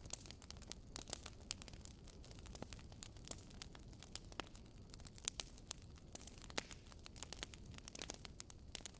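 Wood fire crackling in a fireplace: irregular sharp pops and snaps of burning logs over a low steady rumble of the flames.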